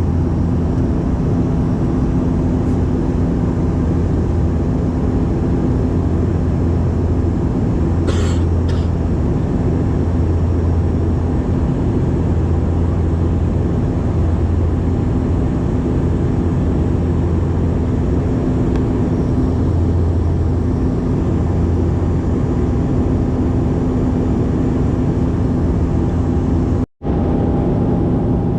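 Steady, loud engine drone of a propeller airliner heard from inside the cabin, with a constant low hum. There is a brief click about eight seconds in, and the sound cuts out for an instant near the end.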